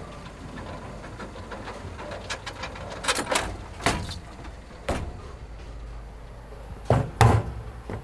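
A series of sharp knocks and clacks over a low steady hum, the loudest two close together near the end.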